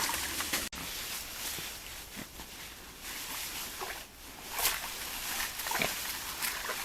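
Wild boars foraging: scattered rustling and crunching of footsteps and rooting on the forest floor over a steady background hiss, with a momentary drop-out about a second in.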